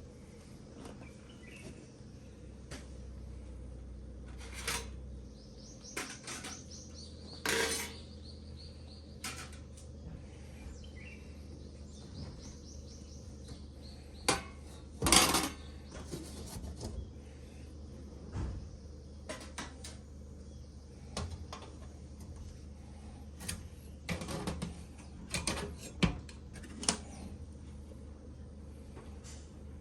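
Metal camping gear being handled: scattered clinks and clanks of metal on metal, the loudest about halfway through and a quick run of them near the end.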